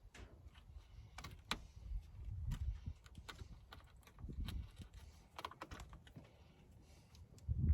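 Irregular light clicks and taps of hand tools and small parts being handled, with a few dull low thumps, the loudest near the end.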